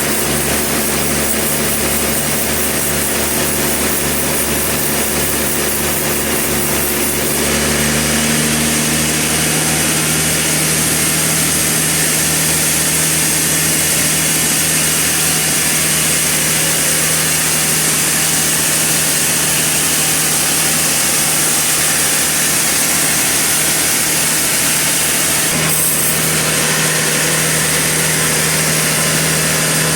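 Sawmill saw cutting a large trembesi (rain tree) log, a loud, steady machine drone with a hissing cutting noise. About seven seconds in, the cutting noise turns brighter and a little louder.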